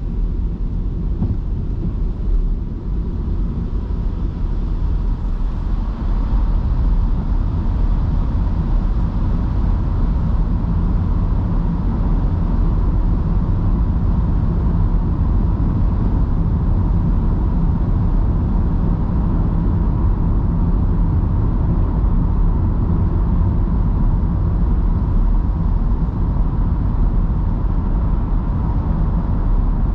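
Electric car driving on rain-soaked city streets: a steady rumble of tyres on wet road and rain, with no engine note. It gets louder about six seconds in, as if the car is picking up speed.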